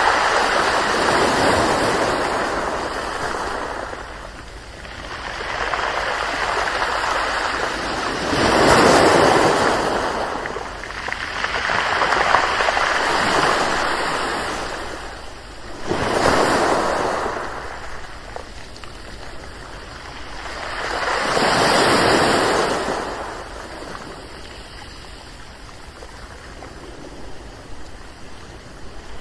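Ocean waves breaking and washing in, in surges a few seconds apart, each swelling up and fading away; the last few seconds are calmer.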